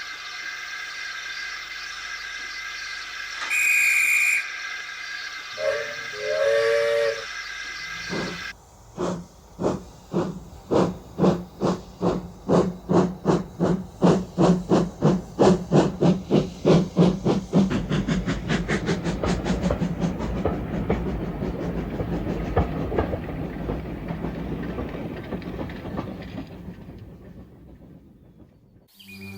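Steam locomotive hissing at a stand, giving a short high whistle and then a lower whistle. It then starts away: exhaust chuffs begin about eight seconds in and quicken to a fast beat. The beats merge into a steady running sound that fades away near the end.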